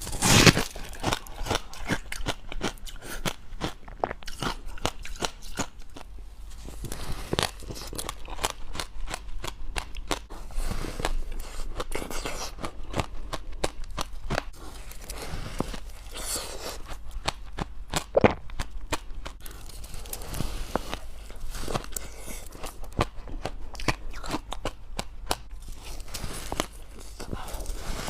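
Close-up crunching and chewing of white frost ice: many irregular crisp crunches throughout, with a louder bite at the very start and another about two-thirds of the way through.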